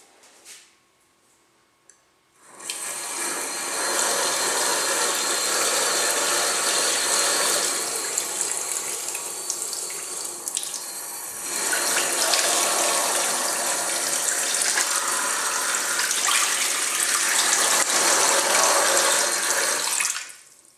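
Tres Quadro basin mixer tap turned on about two and a half seconds in, running with loud water noise that dips briefly midway, then shut off suddenly near the end. The loud noise is the fault the tap developed after installation, which neither supplier nor contractor could cure.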